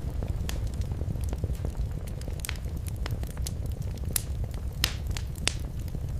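Wood fire crackling in a fireplace: scattered sharp pops over a steady low rumble of the burning fire, with a few louder pops around four and five seconds in.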